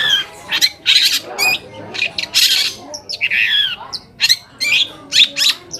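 Long-tailed shrike (cendet) singing: a rapid, varied run of harsh rasping calls, sharp clicking notes and short falling whistles.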